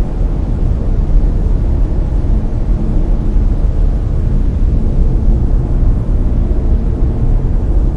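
Layered brown noise: a steady, deep rushing hiss, heaviest in the bass and dimming toward the treble, with no changes or events.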